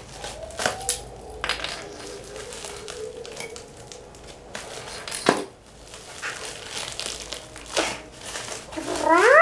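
Plastic and cardboard packaging crinkling and crunching as it is opened, with scattered clicks and knocks. Near the end comes a short, loud cry that rises and then falls in pitch.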